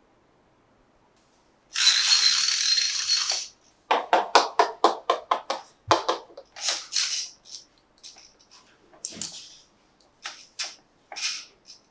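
Handling of a plastic toy and its packaging: a rasping, tearing-like noise for about two seconds, then a quick run of clicks and rattles, and scattered short clicks and rustles near the end.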